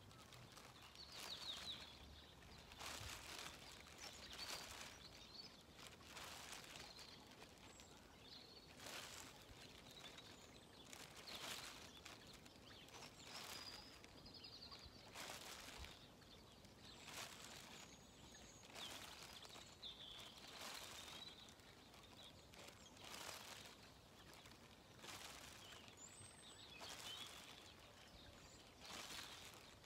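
Quiet riverside ambience: faint, distant bird chirps now and then over soft swells of hiss that come and go about every two seconds.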